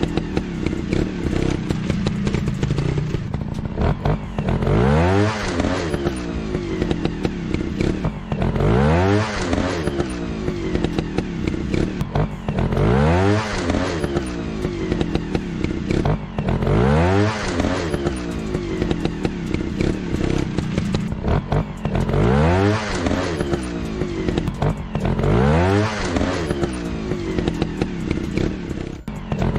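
Motorcycle engine revving over and over: the pitch climbs sharply about every four seconds, then falls back, with light clattering mixed in.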